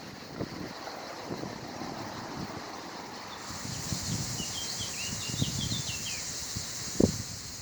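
Wind buffeting the microphone with uneven low rumbling, while a small bird twitters a quick run of chirps about halfway through. A steady high hiss sets in at the same time, and a single sharp knock comes near the end.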